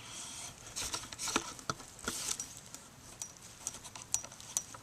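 Handling noise: a scattered run of light clicks, taps and short rustles as the camera is lowered down close to the ground.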